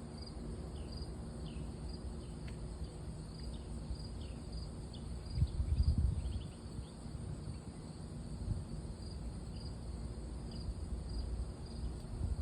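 Wind buffeting the microphone as a low rumble, with a strong gust about halfway through, while an insect, likely a cricket, chirps steadily in short high pulses about twice a second.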